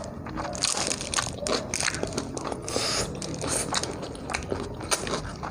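Close-miked eating sounds: food being bitten and chewed, with a run of short crunchy clicks and smacks.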